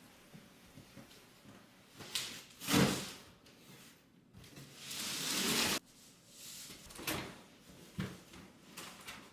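Household handling sounds in a small room: scattered knocks and sliding, with a louder rush of noise a few seconds in, and a longer steady rush that cuts off suddenly just before the middle.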